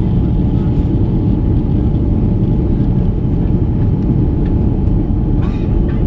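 Airbus A330 airliner in flight, heard from inside the cabin: a loud, steady, low noise of engines and airflow, with a few faint ticks near the end.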